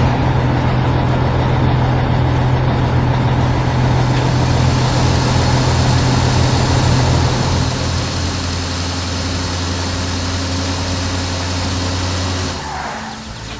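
A heavy vehicle engine runs steadily at a low pitch, and a hiss joins it about four seconds in. The engine note drops a step about eight seconds in, and the sound cuts off about a second before the end.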